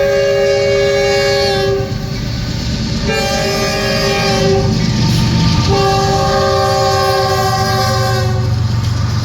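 Norfolk Southern diesel locomotive's multi-note air horn sounding three blasts, the last one the longest, over the steady low rumble of the diesel engines.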